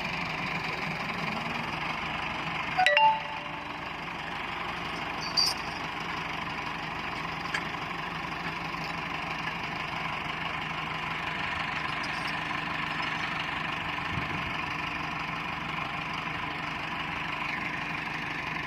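Tractor diesel engine running steadily, with a loud ringing metal clang about three seconds in and a shorter, lighter clank a couple of seconds later.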